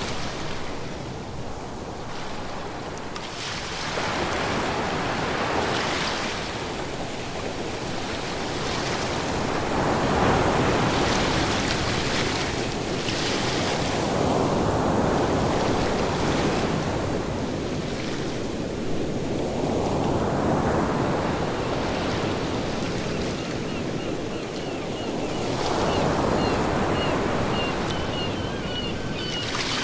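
Ocean waves breaking and washing on a shore, a continuous surf that swells and ebbs every five or six seconds. Faint, rapid high chirps join in near the end.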